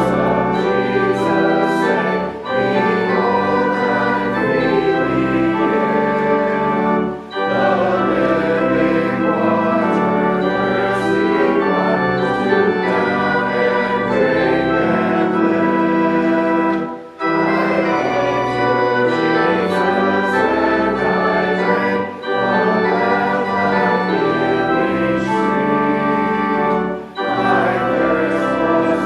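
Church organ playing a hymn in sustained chords, with the congregation singing along, pausing briefly between lines about every five seconds.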